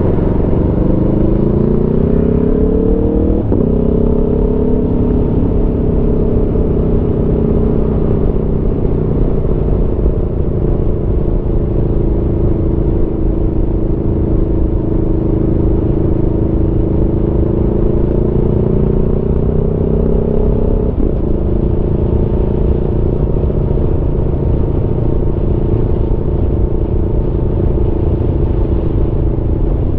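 Aprilia Tuono V4 motorcycle's V4 engine under way: it revs up in gear for about three and a half seconds, then its pitch drops suddenly at an upshift. It then runs at a fairly steady pitch that rises slowly, and drops again at a second upshift about two-thirds of the way through, over a steady rushing noise.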